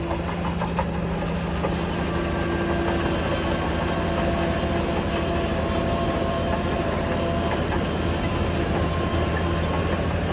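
Shantui DH17C3 crawler bulldozer running steadily under work, its diesel engine droning with the clatter and faint squeal of its steel tracks.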